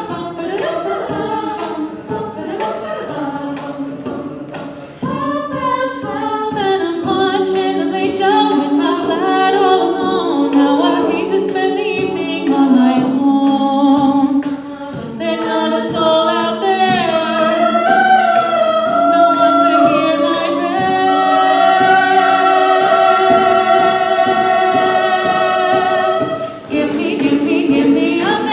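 A cappella group singing in close harmony over a vocal-percussion beat. Through the middle the beat falls away under long held chords, then it returns after a short break near the end.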